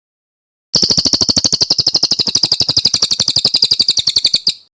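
Cililin songbird singing one long, fast rolling trill of high, evenly repeated notes, about a dozen a second. It starts about a second in and stops abruptly just before the end.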